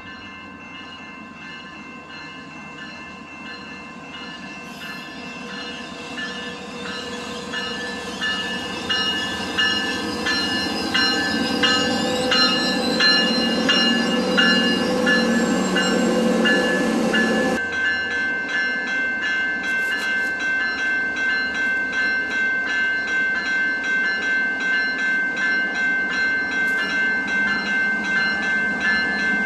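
Commuter train coming in, its rumble growing steadily louder for about fifteen seconds, then settling at a steady level after an abrupt change about 17 seconds in. A bell rings about twice a second throughout.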